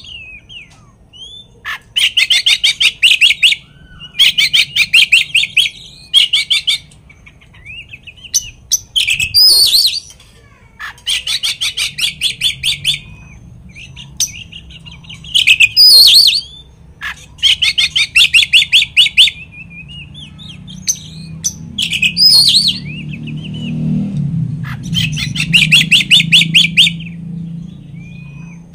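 Oriental magpie-robin (kacer) singing loudly in repeated phrases: rapid trills about a second long alternating with sharp, high whistled notes. This is the full, varied song that bird keepers play as a lure to provoke rival magpie-robins into singing.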